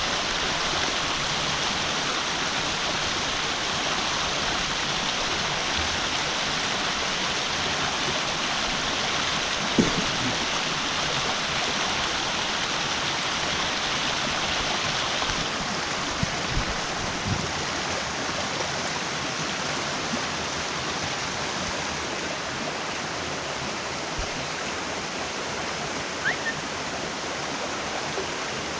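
Mountain stream rushing steadily, running full after heavy rain. A few brief knocks sound in the middle.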